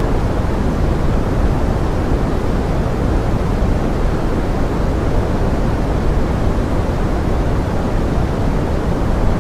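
Steady pink noise: an even, deep hiss with most of its weight in the low end and no change throughout, made as a forest-rain sleep sound.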